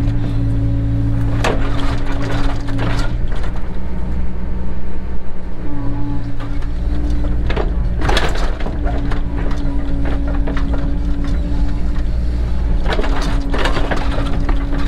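Cat 307 excavator's diesel engine running steadily under work, with a steady tone that drops out and returns a few times. A few clanks and scrapes come through, one near the start, one in the middle and two near the end.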